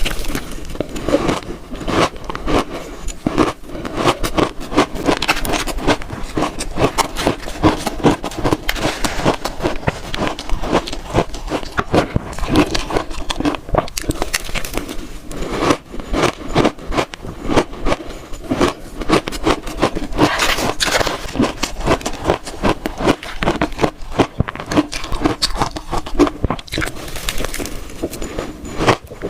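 Close-miked crunching and chewing of frozen red shaved ice, a dense run of crackling crunches several times a second.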